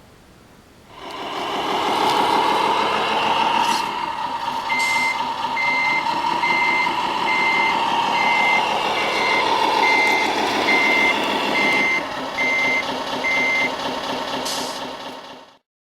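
Sound unit of a 1:14 Tamiya Scania R500 radio-controlled truck playing a V8 engine that comes in about a second in and runs, its pitch rising a little. Over it a reversing beeper sounds about eleven evenly spaced beeps, roughly two a second, with a few short clicks. Everything cuts off abruptly just before the end.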